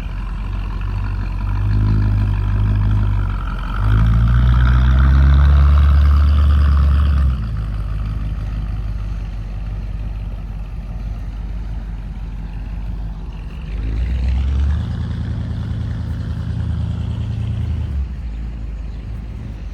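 Car and truck engines running close by as vehicles move through the car show. The loudest is a deep engine from about four seconds in to about seven seconds, and another engine swells up about fourteen seconds in.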